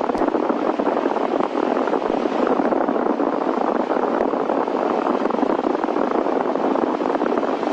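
Steady cabin drone of a Cessna's piston engine, sounding thin and cut off at the bottom as if recorded through the headset intercom, with one brief click just after the start.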